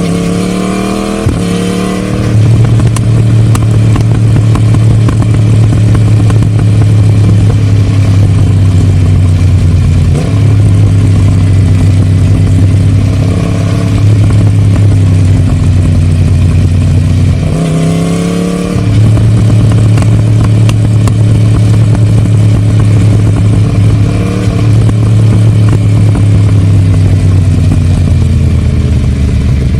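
Yamaha MT-10's crossplane inline-four, breathing through a Scorpion decat pipe and the stock silencer, on the move. It revs up through quick gear changes near the start and again about 18 s in, runs at a steady note in between, and eases off with falling revs near the end.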